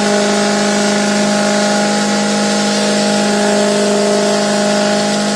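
Ford Excursion's engine held at steady high revs in a burnout, its rear tires spinning against the pavement, with the revs dropping off right at the end.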